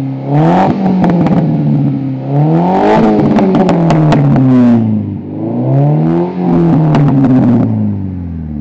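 VW Golf Mk4 engine revved up and let fall back through a custom exhaust three times, with sharp cracks from the exhaust around the top of each rev.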